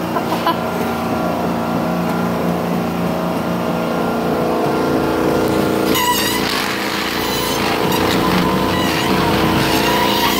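Treadmill running at about 10 mph with the tires of a 1:18-scale model car pressed onto the moving belt, a steady motor whine; about six seconds in, a harsher, wavering high-pitched squeal joins as the tire rubs on the belt, burning its rubber.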